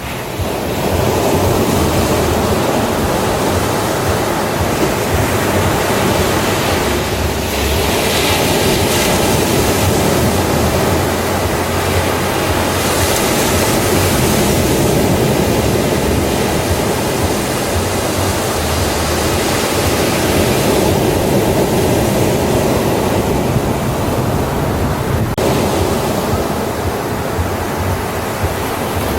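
Ocean waves breaking on a beach in a continuous wash of surf, swelling and easing every few seconds.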